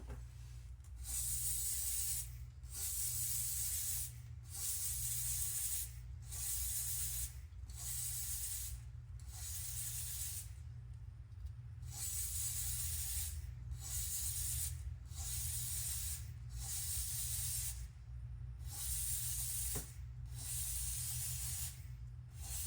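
Aerosol chain lube sprayed onto a motorcycle drive chain in a long series of short bursts, each about a second long, as the chain is turned through one full rotation.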